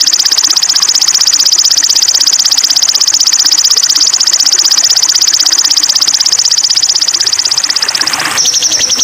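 Small songbird's very rapid, high, buzzy trill held without a break, played as a training song for caged sogon birds; near the end it switches to a slightly lower, different trill.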